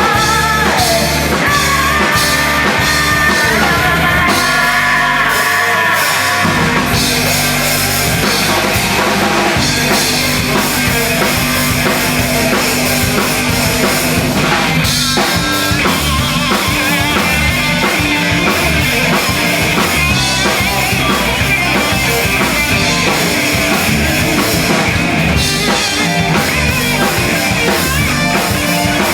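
Live band playing loud post-hardcore/screamo with distorted guitars and a drum kit; the bass drops out briefly about five seconds in before the full band comes back in.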